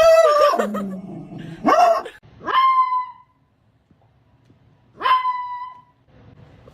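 A dog vocalizing in four calls: a long bark-like call, a short one, then two yelps about two and a half seconds apart that each shoot up in pitch and hold briefly.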